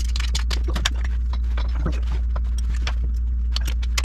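Hand tools clinking and clicking against the exhaust header and its bolts: irregular sharp metallic clicks, several a second, over a steady low hum.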